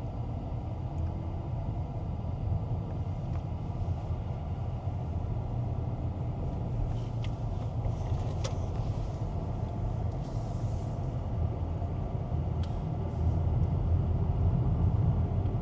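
Steady low rumble of a car in motion, with a few faint clicks about halfway through.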